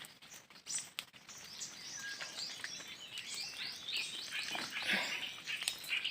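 Birds chirping: a quick run of short, high, falling chirps, with a few faint clicks near the start.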